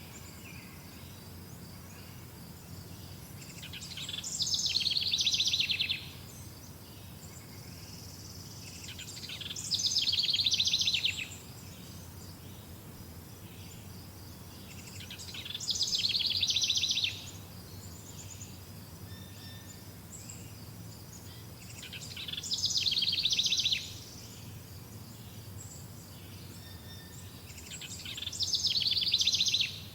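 A songbird repeating the same short trilled song about every six seconds, five times, each phrase swelling into a rapid high trill about a second and a half long. Steady background noise runs underneath.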